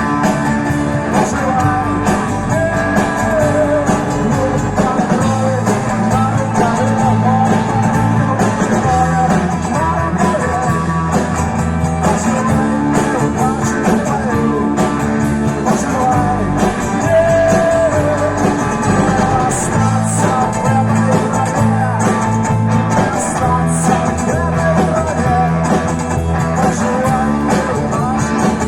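A live vocal-instrumental band playing a rock-style song with guitar, loud and steady throughout.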